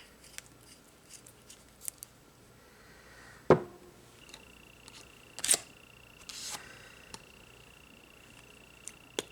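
Small clicks and taps of nail-stamping tools and a polish bottle being handled on a table, with one sharp knock about three and a half seconds in. A faint steady high whine starts about four seconds in.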